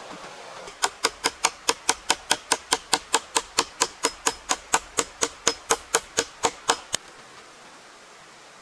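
A fast, very even run of sharp taps or knocks, about five a second, starting about a second in and stopping about a second and a half before the end.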